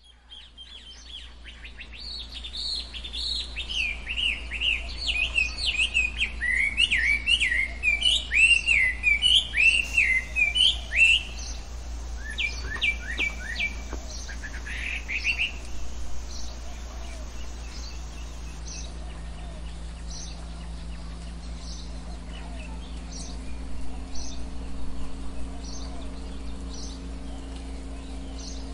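Songbirds singing: a loud run of quick, warbling chirps over the first ten seconds or so, then a few down-slurred notes, then fainter short high notes about once a second. A steady low hum runs underneath.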